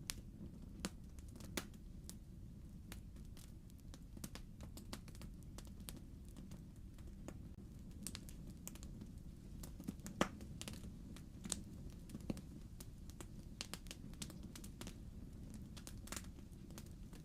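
Wood fire crackling in a fireplace: irregular sharp pops and snaps from the burning logs over a low steady rumble, with one louder pop about ten seconds in.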